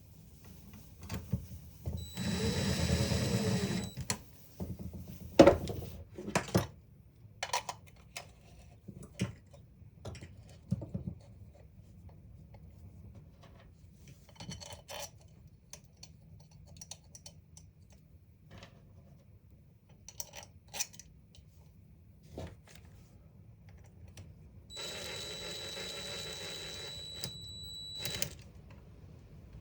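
A small battery-powered tool motor runs in two short bursts of about two and three seconds, each with a high whine, between scattered clicks and knocks of metal parts being handled. The loudest knock comes about five and a half seconds in.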